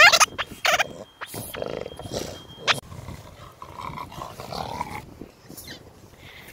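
An animal's voice: a few short rising, pitched cries at the start, then quieter, rougher sounds.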